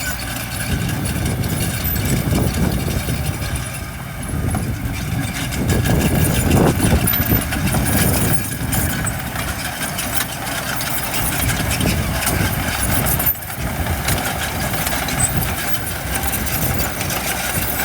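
Diesel engines of heavy earthmoving machinery running, a steady low rumble that rises and falls, with a brief dip about thirteen seconds in.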